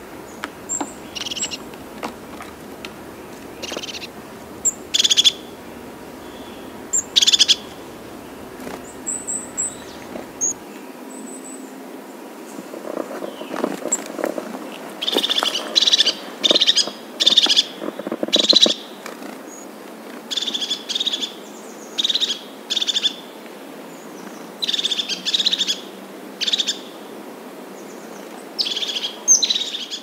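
Birds chirping: bursts of short, high calls over a steady background hiss, sparse at first and coming more thickly in the second half.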